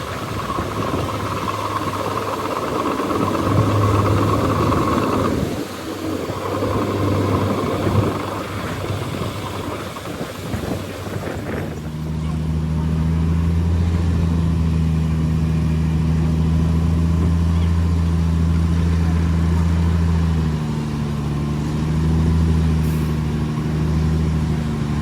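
Heavy diesel engines of earthmoving machinery working. For about the first five seconds the sound is rough and noisy with a steady high whine over it. About twelve seconds in it changes abruptly to one steady, deep engine note that dips briefly a couple of times near the end.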